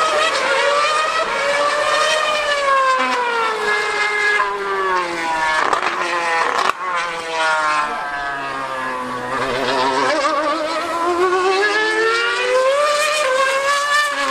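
A 2013-era Formula One car's V8 engine screaming at high revs on track, its pitch repeatedly climbing and dropping as it accelerates, changes gear and brakes.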